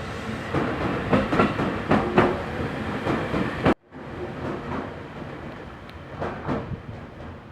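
Passing train's wheels clattering over rail joints in quick repeated knocks. About halfway through the sound cuts off abruptly, then resumes as quieter train running noise with a few clacks.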